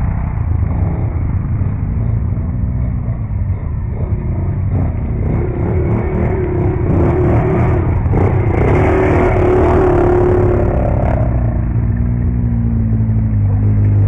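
Quad bike engine running under way, its pitch rising and falling with the throttle, with rattling and a few knocks about two thirds of the way through.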